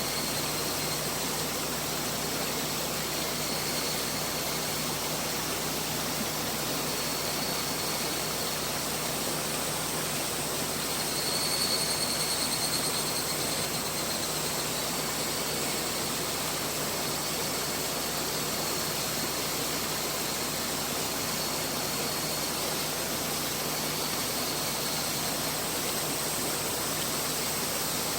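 Mountain river flowing: a steady rush of water that swells slightly about halfway through.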